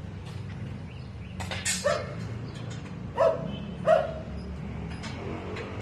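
A dog barking a few short times, over a steady low rumble.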